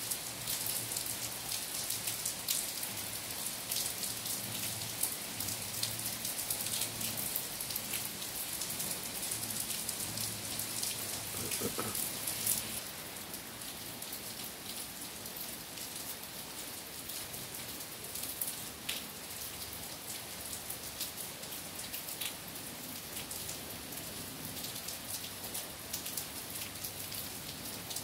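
Steady rain falling on trees, grass and puddles, an even hiss dotted with many close drops ticking; it grows a little softer about halfway through.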